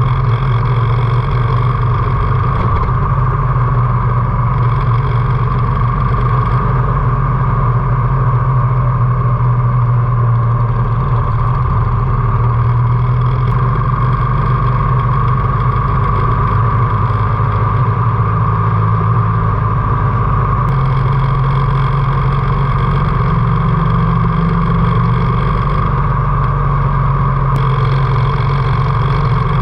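Harley-Davidson V-twin motorcycle engine running at a steady cruise, its pitch holding nearly constant, with road and wind noise over it.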